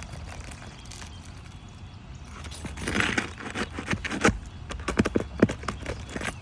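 A run of sharp knocks and scrapes on asphalt roof shingles, starting about halfway through, over a low steady rumble.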